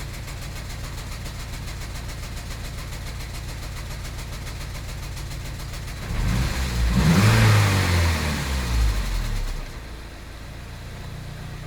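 Vehicle engine idling, then revved up about six seconds in, its pitch rising and falling back to idle some three and a half seconds later. It is being checked for an intermittent misfire and chugging, and the owner says it is running okay right now.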